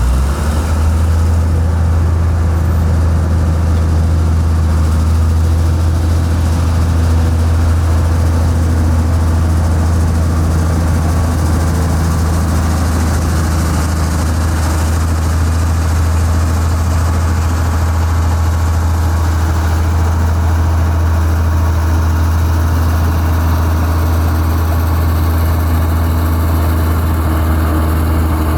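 Heavy construction machine's diesel engine running at a steady speed, a strong low hum that holds level with no clear revving.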